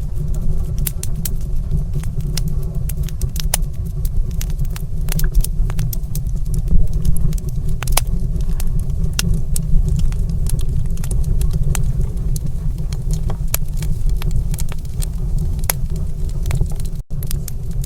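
Wood fire crackling in a fireplace: irregular sharp pops and snaps over a steady low rumble. The sound drops out for a split second near the end.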